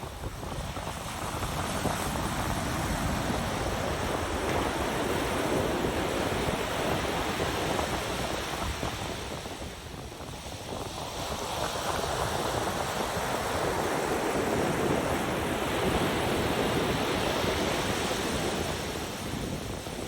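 Ocean surf breaking and rolling up the beach in a continuous wash, swelling and easing as waves come in, with lulls about ten seconds apart.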